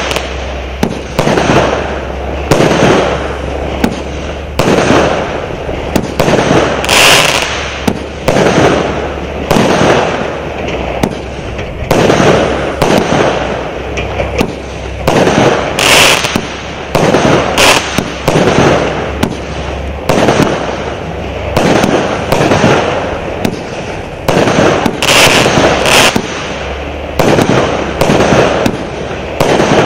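Lesli All Inclusive 120 fireworks battery firing a continuous run of shots, roughly one a second, each a sharp bang followed by a fading burst.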